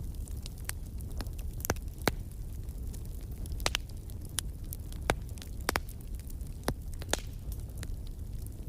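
Wood fire crackling in a fireplace: irregular sharp pops and snaps, a few of them loud, over a steady low rumble.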